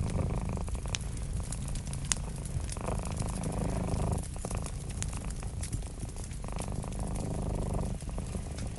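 Cat purring close up, the purr swelling and easing about three times with its breaths, while a wood fire crackles with scattered sharp pops.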